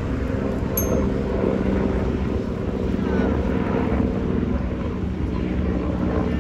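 Steady engine drone with a low rumble and a hum of several held tones, from a helicopter or speedboat crossing the harbour.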